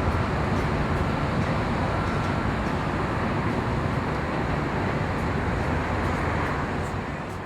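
Steady riding noise from a motorcycle in city traffic: engine rumble and rushing air, easing off a little near the end.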